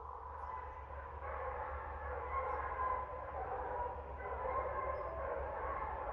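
Dogs barking continuously, several voices overlapping, over a steady low hum.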